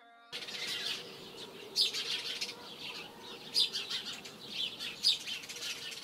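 Birds chirping and twittering, starting after a moment of silence, with a few louder chirps standing out every second or two over a faint steady hum.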